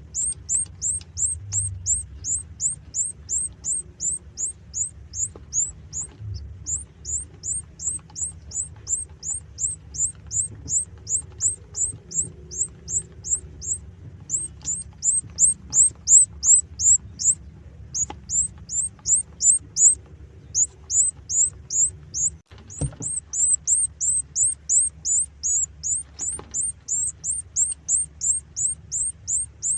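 Canary hatchling cheeping: short, high, falling chirps repeated about three times a second, with a few brief pauses. A faint low hum runs underneath, and there is a single click near the end.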